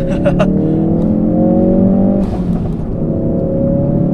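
2016 Ford Focus RS's turbocharged 2.3-litre four-cylinder pulling hard off a clutch-dump launch, heard from inside the cabin. The revs climb, break at an upshift about two seconds in, then climb again in the next gear.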